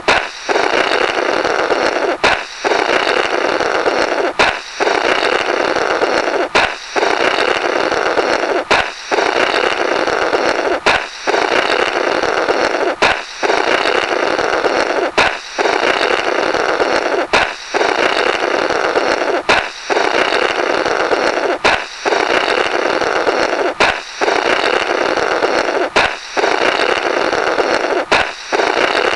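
"Blorrrt" balloon-break sound effect played over and over: a balloon pop followed by a comical blow through the burst rubber, repeating about every two seconds.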